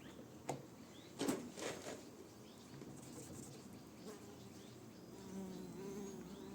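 Buzzing of a fly or other flying insect, a wavering hum that comes in about four seconds in. Before it come a few sharp knocks and clicks, the loudest about a second in, over faint birdsong.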